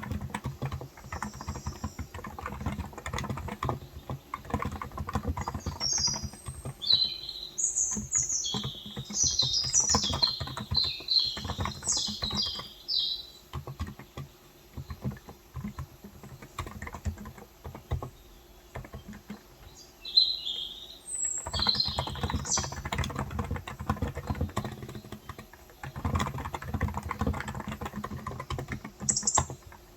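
Steady typing on a COX Endeavour electro-capacitive tenkeyless keyboard with 35 g switches: a dense run of keystrokes that thins out for a few seconds midway. Birds chirp in quick bursts over it, in two spells and once near the end.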